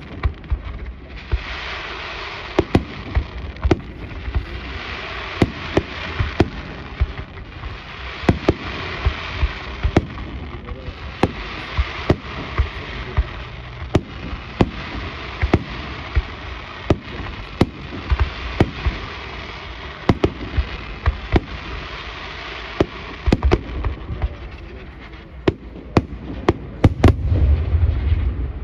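Aerial fireworks display by Itria Fireworks: shells bursting about once or twice a second over a continuous crackling hiss of burning stars. Near the end, a heavier salvo brings a low rumble and louder bangs.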